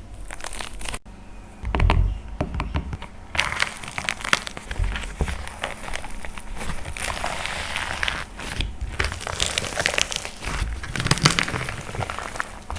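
Dried plaster clay being crushed and crumbled, a dense run of crunchy crackles and pops, with a short break about a second in.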